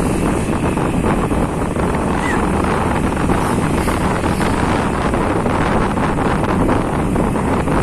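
Wind rushing over the microphone of a moving motorcycle, a steady loud rush with the motorcycle's running noise beneath it.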